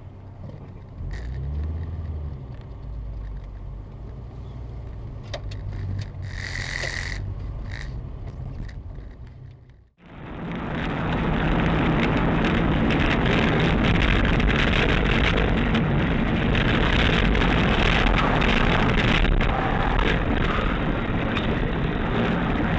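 Car driving, recorded from a dashcam: a steady low engine and road rumble, with a short high tone about six and a half seconds in. About ten seconds in it cuts to a louder, steady rush of road and wind noise.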